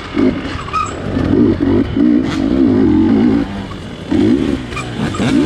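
GasGas dirt bike engine being ridden hard off-road, revving up and down in short bursts of throttle, with a brief drop in revs a little past halfway.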